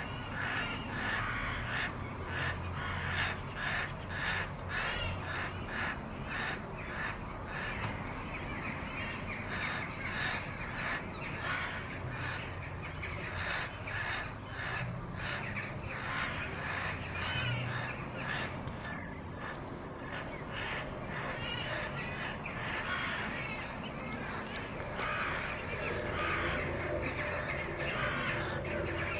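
Harsh bird calls, many short cries repeated in quick succession, going on without pause.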